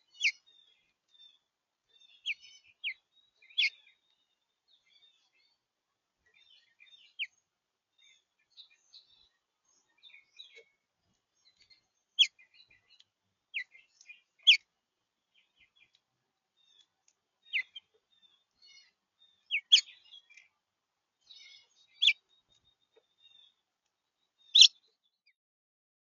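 Small songbirds calling at a feeder: about a dozen short, sharp chip notes that drop in pitch, spaced irregularly, with faint high twittering in between.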